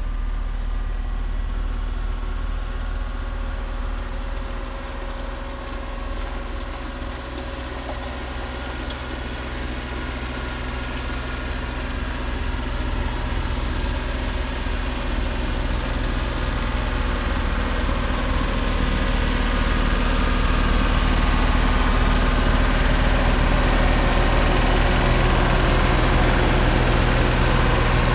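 Ford diesel tractor running with a rear-mounted Nortrac snowblower: a steady engine drone that grows louder and fuller during the second half.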